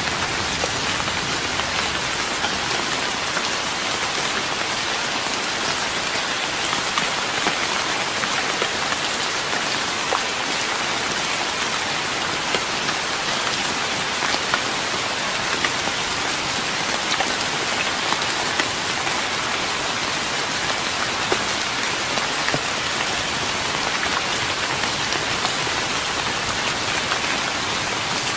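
Steady rain falling on a wooden deck, an even patter with scattered individual drops ticking out above it.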